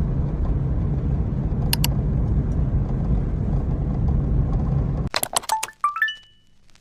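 Steady low rumble of a moving vehicle, with a couple of clicks just before two seconds in. The rumble cuts off suddenly about five seconds in, followed by a few clicks and a quick run of short chime tones, each one higher than the last.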